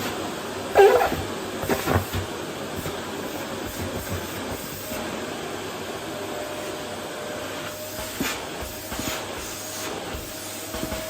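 Vacuum cleaner running steadily on a wooden floor, a whooshing hiss of suction, with a couple of brief louder knocks from the nozzle in the first two seconds and a faint steady whine coming in about halfway through.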